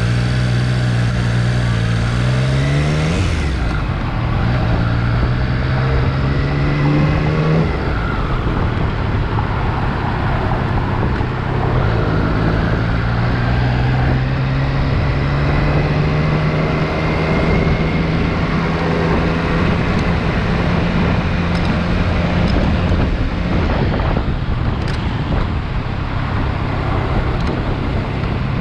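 Triumph Street Triple R's three-cylinder engine running under way, rising in pitch and dropping back at gear changes in the first several seconds, then holding steady. A few faint clicks come through it, about 4 s in and several times in the last third, an intermittent clicking whose cause the owner cannot identify.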